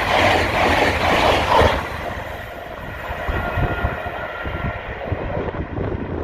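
Passenger train passing at speed on a high-speed mainline, a loud rush of wheel and air noise that drops away sharply about two seconds in, leaving a fading rumble as it recedes.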